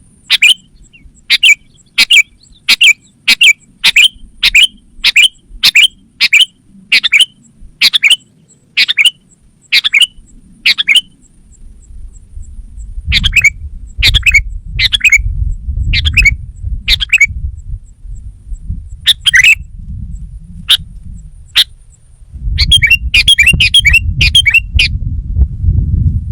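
Sooty-headed bulbul giving short, sharp calls over and over, about one and a half a second, then more spaced out, then a quick burst of calls near the end. A low rumble runs underneath from about halfway through.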